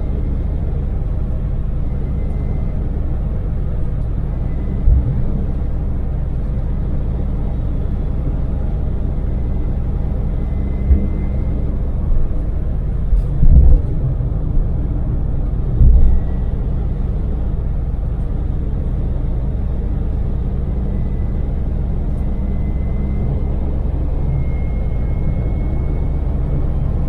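Daewoo Damas minivan at steady cruise, heard from inside the cabin: a steady low drone of its small three-cylinder LPG engine mixed with tyre and road noise. A few brief low thumps break in, a cluster of them about 12 to 16 seconds in.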